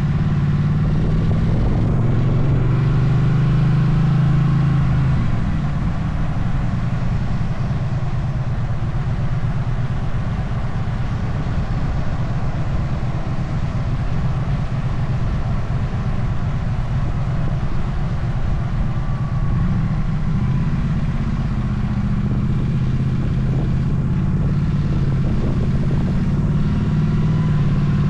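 Motorcycle engine running on the road, with wind rush over the microphone. The engine note falls and eases off a few seconds in, then picks up again about twenty seconds in.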